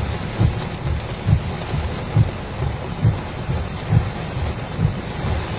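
Heavy rain drumming on a car, with a regular low thump about twice a second.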